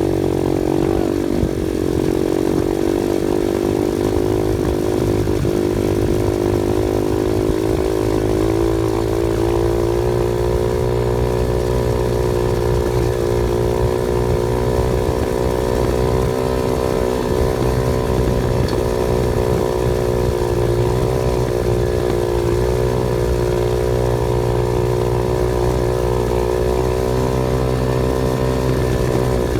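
Off-road vehicle engine running continuously under load, its pitch wavering for the first ten seconds or so and then holding steady.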